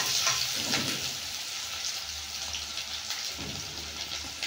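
Sliced onions, garlic and green chillies sizzling steadily in hot oil in a kadhai as the onions brown, stirred a few times in the first second or two.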